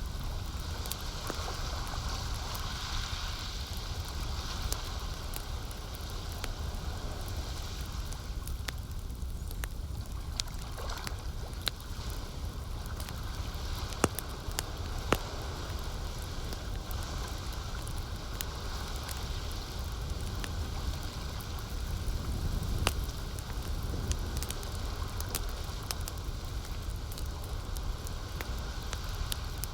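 Campfire crackling, with scattered small snaps and a couple of sharper loud pops about halfway through, over the steady wash of lake water lapping.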